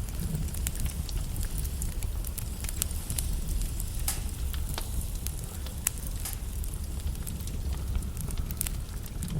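Wood logs burning in a fireplace, crackling with irregular sharp pops over a steady low rumble.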